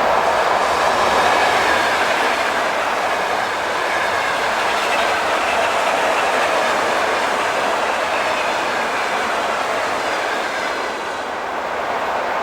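Electric train passing close by on the rails: a continuous, loud rush of wheel and rail noise with faint steady whining tones above it, easing slightly near the end.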